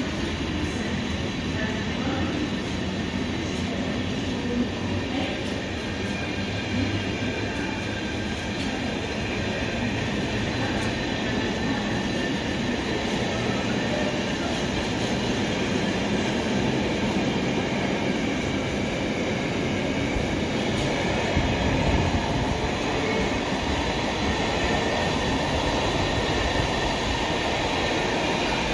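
A train running past on the rails: a steady rumble of wheels on track with a few faint clicks, growing slightly louder in the second half.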